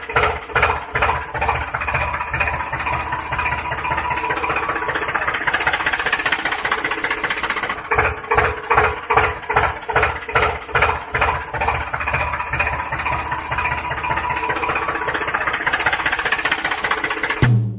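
Tractor engine running, with a regular chugging pulse of about two or three beats a second that is strongest just after the start and again in the middle stretch; it cuts off abruptly near the end.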